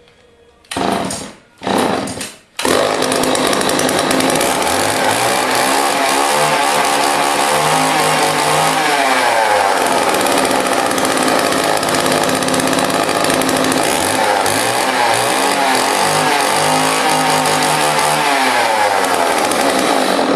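John Deere 50V two-stroke chainsaw cold-started on a few pulls: two short bursts, then it catches about two and a half seconds in and keeps running. The revs rise and fall a couple of times.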